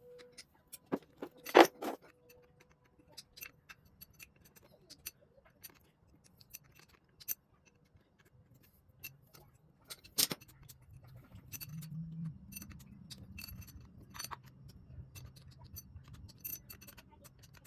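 Scattered light metallic clicks and clinks, with two sharper knocks about one and a half seconds and ten seconds in. A low hum comes in about eleven seconds in.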